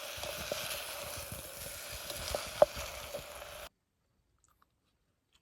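Chicken sizzling in a Stanley cook set pot: a steady hiss with a few sharp pops of spitting fat. It cuts off abruptly about two-thirds of the way through, leaving near silence.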